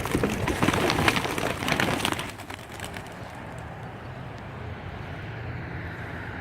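A flock of young racing pigeons taking off together, many wings clapping and flapping for about two seconds, then dying away to a quieter steady hiss.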